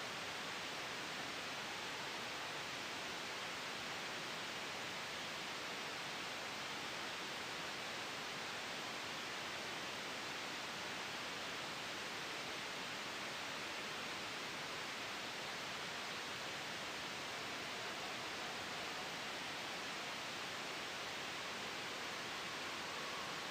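Steady sleep-aid white noise blended with a gentle wind sound: an even, unchanging hiss.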